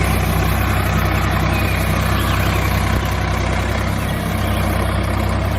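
A vehicle engine idling steadily, a low, even rumble that holds the same pitch throughout.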